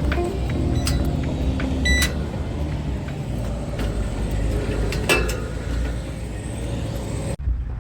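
Steady low rumble of a road vehicle running, with a few sharp clicks and rattles about one, two and five seconds in. The higher sounds cut out suddenly near the end while the low rumble carries on.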